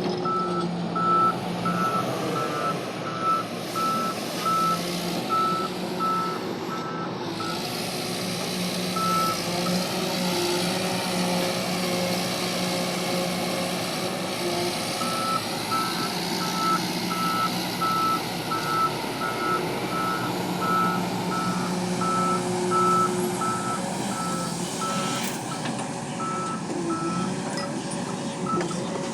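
Diesel engines of an excavator and tipper truck running steadily during loading, with a backup alarm beeping at about two beeps a second. The beeping stops about seven seconds in and starts again about halfway through.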